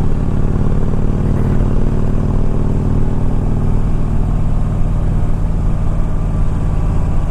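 2007 Harley-Davidson FLHT Electra Glide's 96 cubic inch V-twin engine running steadily under way, at an even speed.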